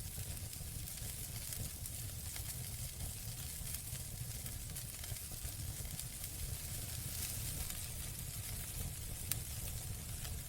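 Campfire burning with a steady hiss and scattered sharp crackles and pops, the loudest pop about nine seconds in, over a low steady rumble.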